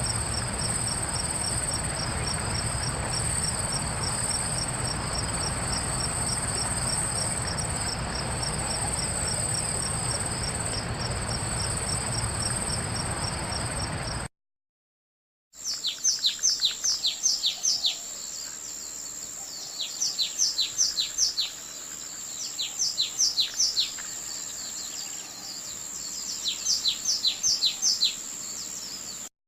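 Crickets or other insects chirping in a steady, evenly pulsed high trill over a low rumble. After a short break, a songbird sings four phrases of five or six quick, falling whistled notes over a steady high insect hum.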